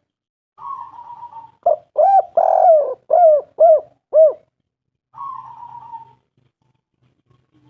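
Spotted dove cooing: a soft rolling purr, then a run of about six loud arching coo notes with one drawn-out note in the middle, then another soft rolling purr.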